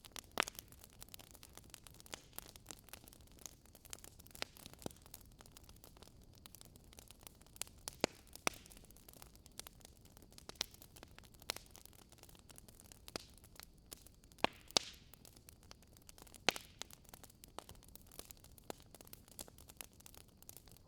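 Campfire crackling: irregular sharp pops and snaps of burning wood over a soft hiss, with a few louder pops scattered through.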